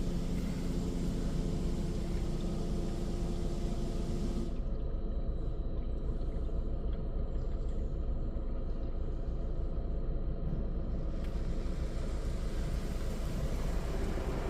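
Touchless automatic car wash heard from inside the car: a steady low rumble of the wash machinery, with a hiss of spray on the car body that stops about four and a half seconds in and comes back about eleven seconds in.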